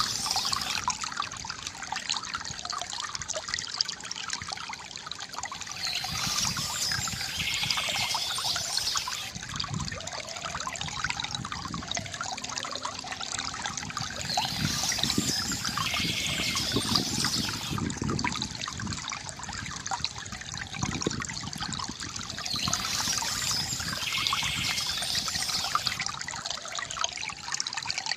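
Water trickling and gurgling steadily from a bamboo fountain spout. A high trill comes back about every eight seconds over the water.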